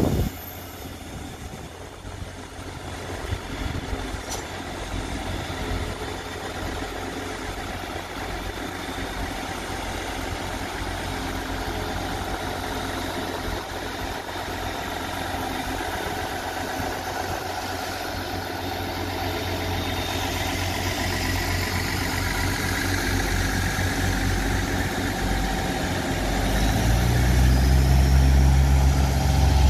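Taiwan Railway passenger train rolling slowly past the platform with a steady engine drone that grows gradually louder. A deeper rumble builds over the last few seconds.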